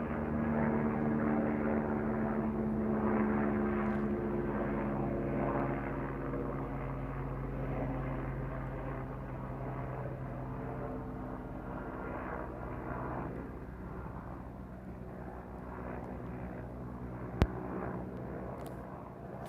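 AW119 single-engine helicopter passing over, a steady rotor and turbine drone. Its pitch drops slightly as it goes by and it slowly fades. A single sharp click comes near the end.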